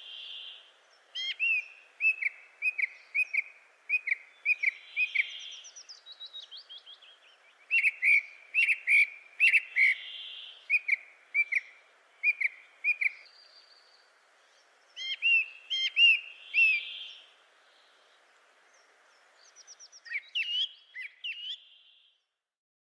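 Songbirds singing: bursts of short, clear, repeated whistled chirps with a few pauses, over a faint steady background hiss.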